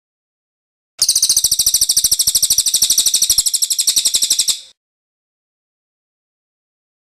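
Cililin bird's rolling song: one rapid, evenly pulsed high-pitched trill, starting about a second in and running for about three and a half seconds before stopping abruptly.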